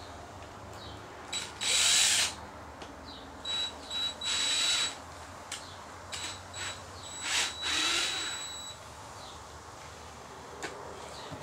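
Power drill driving drywall screws with washers into a plastic camping cooler box, in several short bursts of a second or less, each with a high motor whine.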